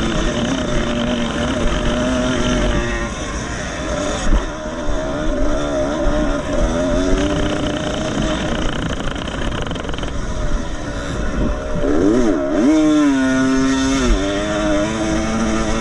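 Two-stroke 125 cc motocross motorcycle engines revving up and down as the bikes race. About twelve seconds in, one engine's pitch jumps quickly up and down, then holds high.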